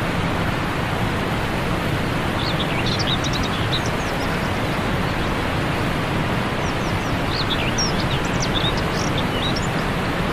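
A steady rushing noise with small birds chirping over it in two short spells, a few seconds in and again in the second half.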